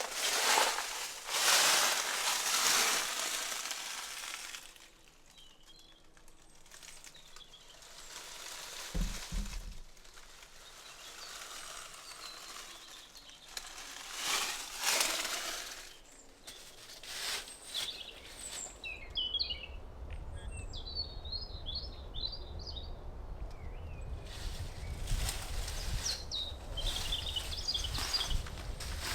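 Outdoor mountain ambience: a small bird chirping in quick runs of high notes in the second half. Beneath it runs a low rumble from about two-thirds of the way in, and the first seconds carry louder rustling, crunching noises.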